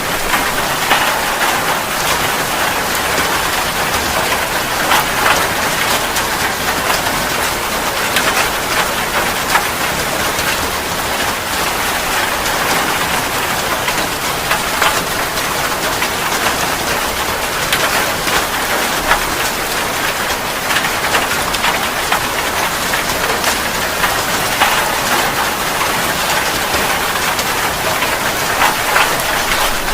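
Steady rain falling: a dense, even hiss of rain with frequent sharper drop ticks scattered through it.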